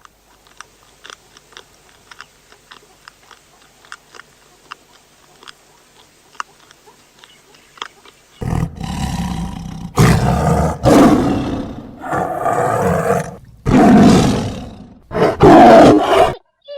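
A big cat roaring: a series of about five loud, rough roars starting about halfway through, after faint scattered clicks.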